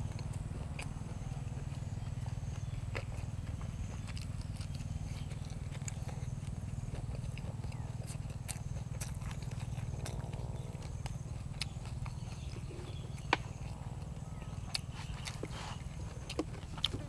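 Close-up eating sounds: scattered short crunches and mouth clicks of chewing over a steady low rumble, with one sharper click about two-thirds of the way through.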